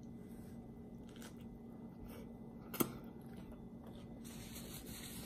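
Quiet, close chewing of a hamburger in a soft bun, with faint wet mouth clicks and one sharper click about three seconds in, over a low steady hum.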